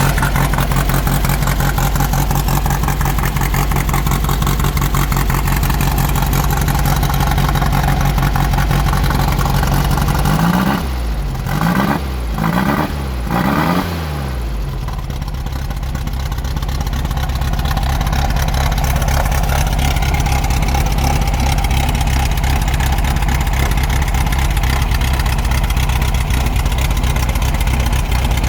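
VW Beetle's 1641 cc single-port air-cooled flat-four engine running steadily, given three quick blips of the throttle about halfway through, each rising and falling in pitch, before settling back to an even idle.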